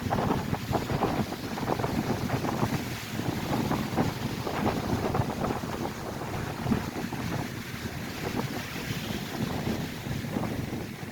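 Strong, gusty wind buffeting the microphone over the continuous wash of lake waves breaking on the shore.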